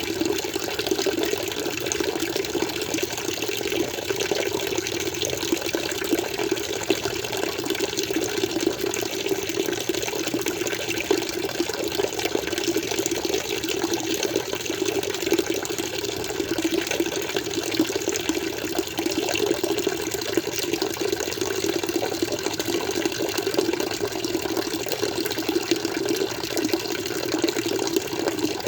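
Water flowing steadily, a continuous even rushing with no pauses or changes.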